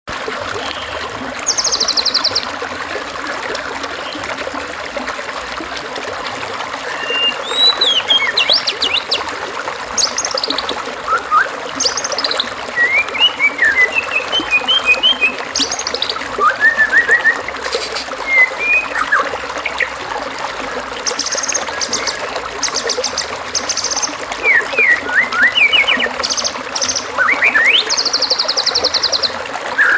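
Masteran birdsong recording for white-rumped shamas: a string of varied songbird phrases, with whistled rising and falling notes, short chirps and fast buzzy trills, over a steady trickling-water background. The high trills come around two seconds in, again in the second half, and near the end.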